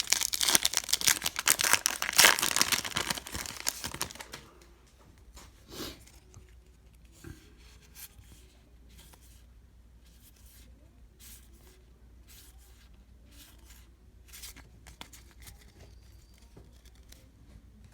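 A Topps Pro Debut card pack wrapper being torn open and crinkled for about four seconds, then faint rustles and light clicks of cards being handled.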